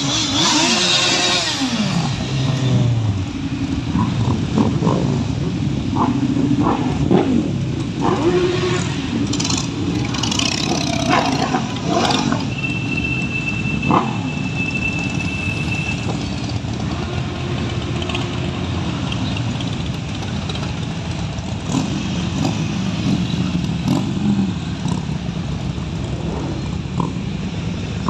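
Motorcycle engines revving, the pitch rising and falling over the first few seconds, then a steady engine rumble with scattered clatter and a thin high tone for a few seconds midway.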